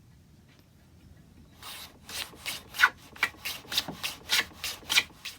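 Quick back-and-forth rubbing strokes on wood, about three a second, starting about a second and a half in.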